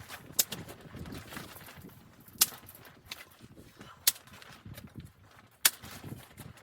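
Four sharp knocks, spaced about a second and a half to two seconds apart, over a low rumbling background.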